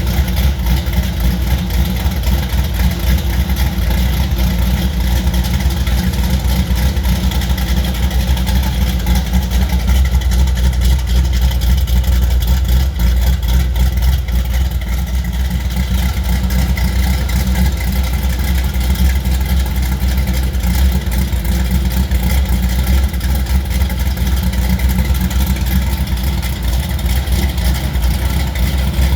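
G-body Chevrolet Monte Carlo engine with a big camshaft idling steadily, its exhaust loud and heavy in the low end.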